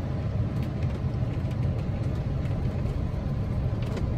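Cabin noise of a 2014 Chevrolet Spark EV on the move: a steady low rumble of tyres on a rough winter road, with no engine sound, and a few faint clicks.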